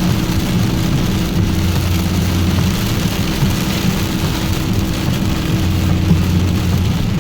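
Heavy rain beating on a truck, heard from inside the cab over the steady low hum of its engine and road noise.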